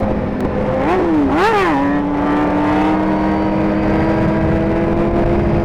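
Suzuki GSX-R1000 inline-four sport-bike engine: it cuts in sharply, blips up and down twice about a second in, then holds a steady note that rises slowly in pitch, as when riding under light throttle.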